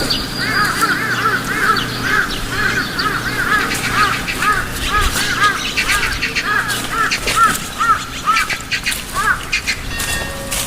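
Bird calls: a fast run of short, arched whistled notes, several a second, repeated over and over.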